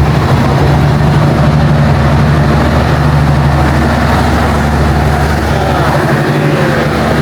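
Heavy diesel train engine running steadily with a deep, even hum.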